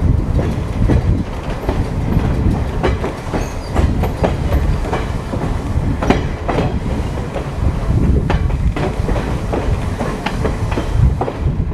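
Electric streetcar running along its track, heard from on board: a steady low rumble with irregular clicks, clacks and rattles from the wheels and car body.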